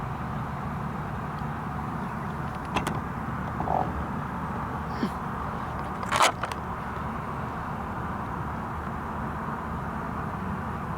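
Car on the move, heard from inside: steady road and engine noise, with a few short clicks and knocks, the loudest about six seconds in.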